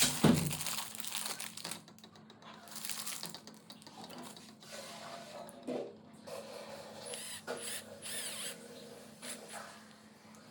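Handling noises: a knock at the start, then intermittent rustling and light clicks.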